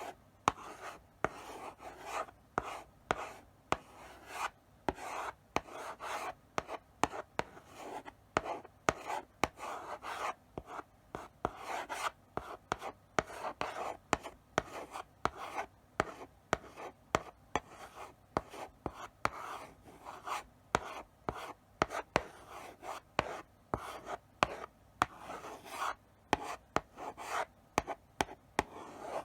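Chalk writing slowly on a blackboard: short scratching strokes one after another, broken by sharp taps as the chalk strikes the board.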